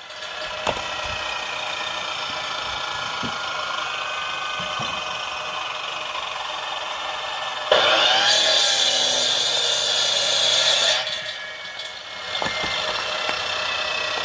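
Chainsaw running steadily, then revving up and cutting into a log for about three seconds, starting about eight seconds in, before dropping back.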